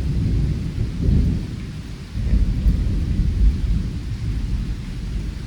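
Thunder rumbling low and long, swelling louder about two seconds in, over steady falling rain.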